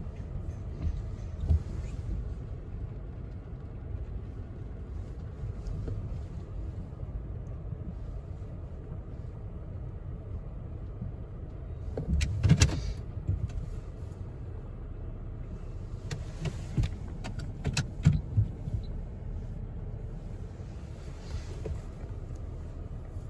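Car wash tunnel heard from inside the car: a steady low rumble, with a burst of loud knocks and thumps about twelve seconds in and several more around sixteen to eighteen seconds.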